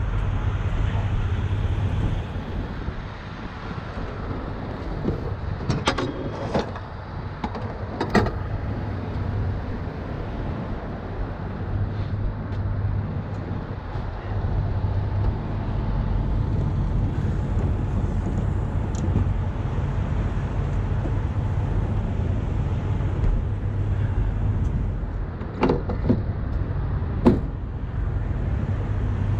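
Heavy-duty tow truck's diesel engine idling steadily, with a few sharp metal clanks: a cluster about six to eight seconds in and two more near the end.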